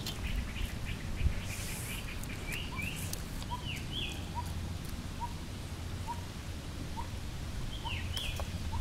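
Birds calling: one repeats a short note about every 0.7 seconds, and another gives louder sweeping chirps now and then. A low rumble runs underneath, with a single sharp knock about a second in.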